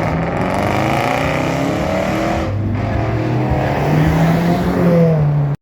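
A car engine running loud and revving as the car pulls away, its pitch climbing over the last two seconds.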